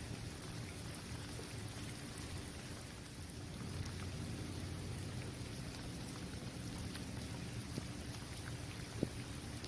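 Steady rain falling on a basketball court, with scattered individual drops ticking and a low rumble underneath; one sharper drop tick comes about nine seconds in.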